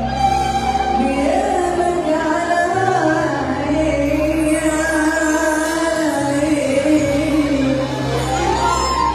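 A woman singing an Arabic song in an ornamented, wavering melodic line over band accompaniment with a steady bass. Her voice glides upward near the end.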